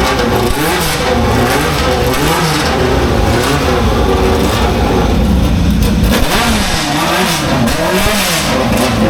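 Classic racing car engines running hard, pitch climbing and dropping over and over, about once a second.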